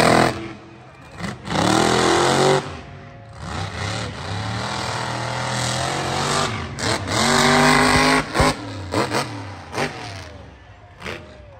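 Monster truck engine revving in repeated bursts, climbing in pitch with each rev and held high for several seconds in the middle, with one sharp crack about eight seconds in.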